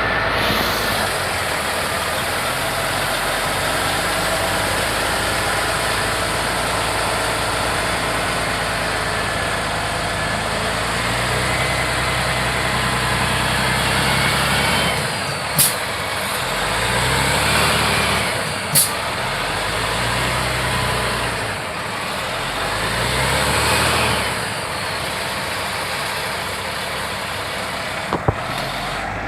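Oshkosh HEMTT 8x8 diesel truck engine running under load, then revved up and down several times in the second half as the truck tries to pull through mud. Two sharp clicks or knocks come in the middle.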